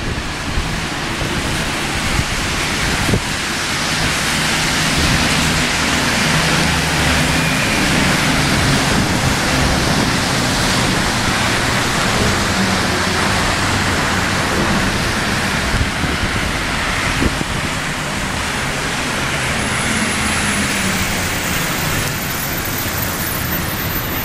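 Steady rain hiss mixed with city traffic: vehicles passing on a wet road, their engine hum swelling and fading under the noise.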